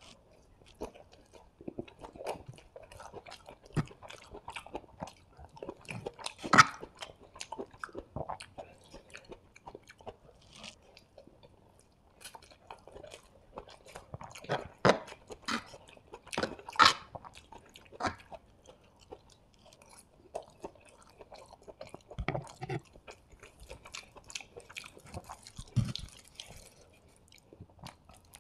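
Close-miked chewing and wet mouth sounds of someone eating hakka noodles, with irregular sharp clicks, two of them much louder than the rest. Near the end, a crinkle of foil and a bite into a foil-wrapped chappathi roll.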